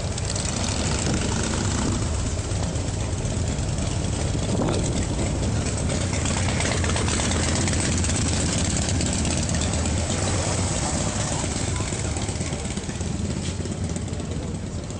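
Motorcycle engine running at low speed with a steady low rumble as a custom chopper rolls slowly through the crowd; the rumble eases a little near the end.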